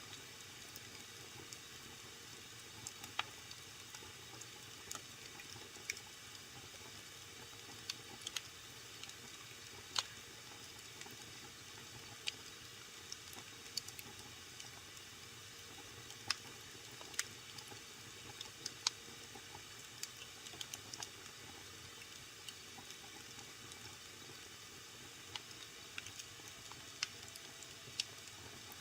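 Wood fire burning in a fireplace: a soft steady hiss with sharp, irregular crackles and pops several times a second.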